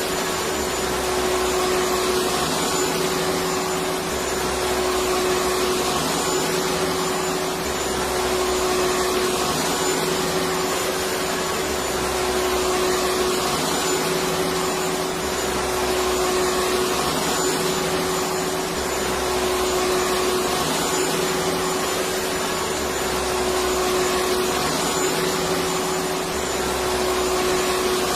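Electric vacuum cleaner running continuously: a steady rushing hiss with a constant motor whine, and a low hum that shifts back and forth about every two seconds.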